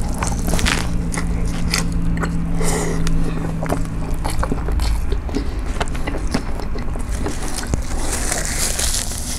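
Close-up sounds of a person biting into a guacamole bacon burger and chewing it, with many small irregular wet clicks. A steady low hum stops about halfway through, and near the end a paper napkin rustles as fingers are wiped.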